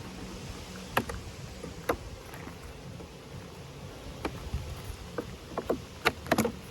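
Sharp clicks and knocks of wooden beehive frames being handled and set against the hive body, scattered irregularly and coming more quickly near the end, over a low steady rumble.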